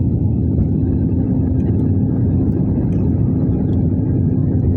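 Steady low rumble of airliner cabin noise on descent: jet engines and airflow heard from inside the cabin, with a faint steady hum joining about a second in.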